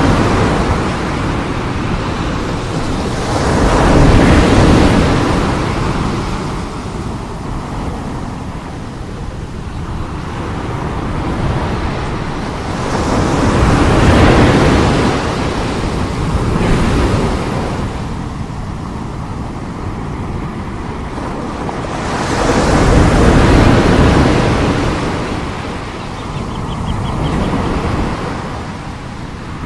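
Strong sea waves breaking, the surf swelling into loud crashes and washing back down several times over, about every five to ten seconds.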